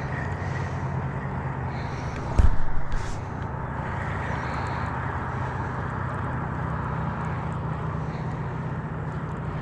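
Small boat motor running steadily, with one sharp knock about two and a half seconds in.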